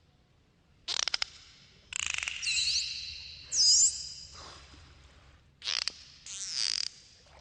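Dolphins clicking and whistling: three bursts of rapid clicks and several high whistles that sweep up and down in pitch.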